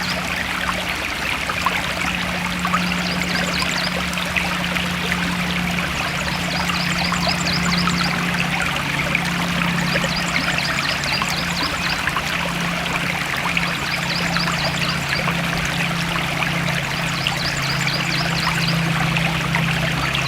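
Forest stream flowing and trickling steadily. A short, high, rapid chirping call repeats every three to four seconds, over a steady low hum.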